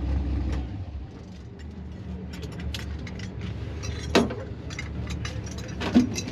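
A car engine idling cuts out under a second in, leaving a faint hum. Then come a string of light metallic clinks and clicks and two sharper knocks, about four and six seconds in.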